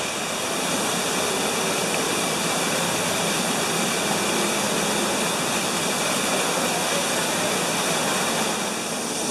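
Artificial waterfall: a steady rush of falling water.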